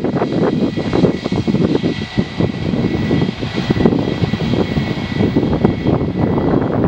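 Jet airliner's engines running loud, a rough rumble with a steady high whine over it.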